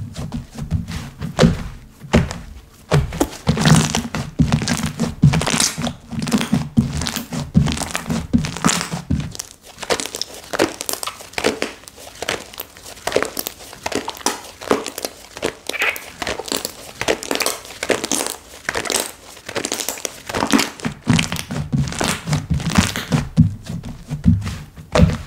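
Hands squishing, pressing and poking slime, giving a dense run of small clicks, pops and crinkles. Dull thuds go with it for about the first nine seconds and again near the end.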